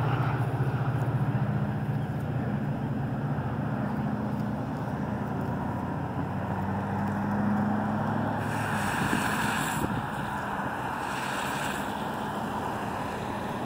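Low, steady rumble of a train and road traffic at a grade crossing, the hum fading as the Metra train pulls away. A hiss of passing tyres or wind on the microphone comes twice in the later part.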